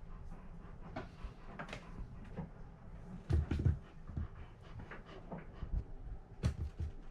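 A dog panting close by, with a few soft low thumps, the loudest about three and a half seconds in.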